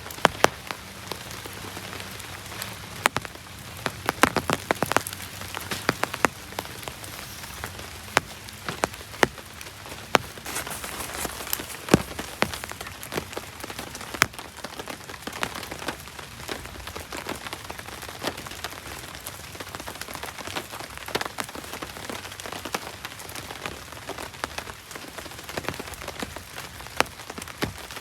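Steady rain, with many sharp drop impacts ticking through it.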